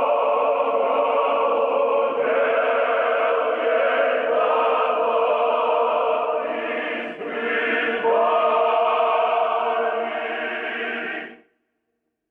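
A choir singing held chords, the chord changing about two seconds in and again about eight seconds in, then cutting off suddenly near the end.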